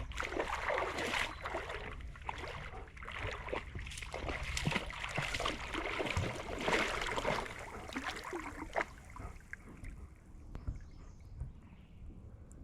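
Dog splashing about in water, with irregular sloshing and splashes that grow quieter after about nine seconds.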